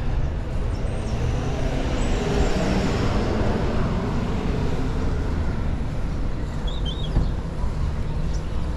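Road traffic noise: motor vehicles passing over a steady low rumble, swelling as one goes by about two to three seconds in.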